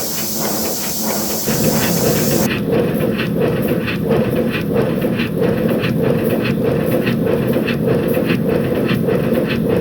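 A 5-inch gauge live steam model locomotive running on a rolling road: a steady hiss of steam with a quick, even run of exhaust beats, several a second. About two seconds in the sound changes abruptly, the high hiss dropping away and the beats standing out more.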